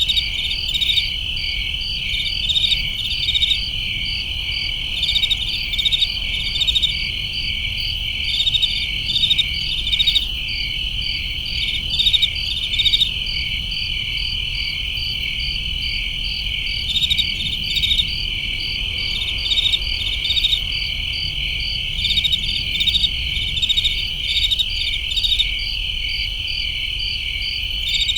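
Crickets chirping at night: a steady, high-pitched trilling chorus, with louder pulsed chirps from nearer insects repeating about once a second.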